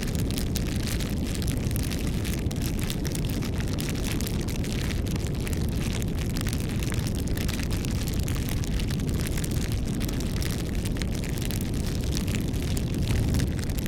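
Campfire burning: a steady low rush of flame with frequent small crackles and pops from the wood.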